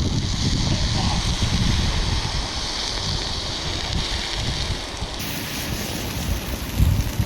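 Wind rumbling and buffeting on the microphone over a steady rushing hiss.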